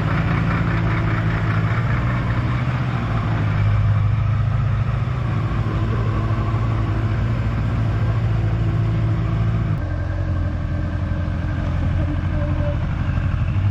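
Honda motorcycle engine running steadily on the move, its note dropping in pitch and level about ten seconds in as the revs fall.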